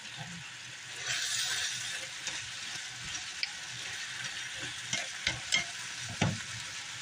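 Chicken breast, sweet pepper and onion sizzling in a skillet as they are stir-fried, the hiss swelling about a second in, with a few knocks of the utensil against the pan in the second half.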